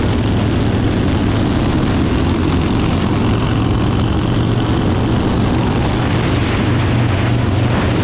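Harley-Davidson V-twin motorcycle running steadily at cruising speed, its exhaust note mixed with the rush of wind and road noise.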